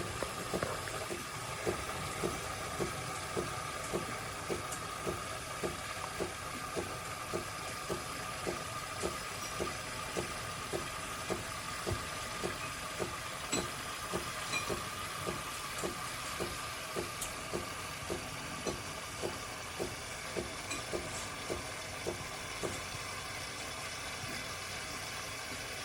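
De'Longhi Magnifica Start espresso machine running with a steady hiss and a regular pulsing of about two beats a second, typical of its pump working in pulses; the pulsing stops a few seconds before the end.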